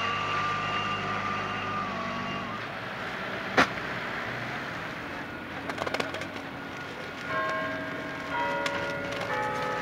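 A truck's reversing beeps and steady engine noise, the engine tone dropping away about two and a half seconds in. A single sharp knock follows about a second later, and music with held notes comes in from about seven seconds in.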